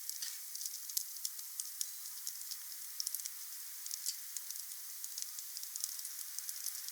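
Wood fire crackling: many irregular sharp pops and snaps over a steady hiss.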